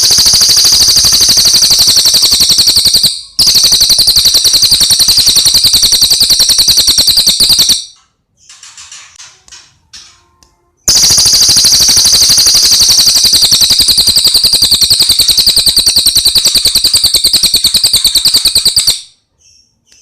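Cililin songbird singing long, loud, very fast high-pitched rattling trills, three runs in all, the last running about eight seconds. In a short gap near the middle there are softer scattered chirps.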